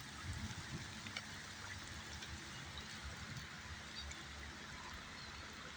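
The Rio Ruidoso's water flowing, heard as a faint, even rushing hiss.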